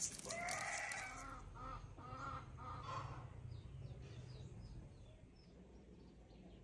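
Bird calling: one long call about half a second in, then three or four shorter calls, followed by faint high chirps of small birds.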